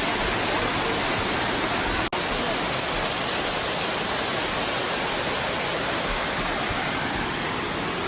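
Steady rush of a waterfall's falling water, with a brief dropout about two seconds in.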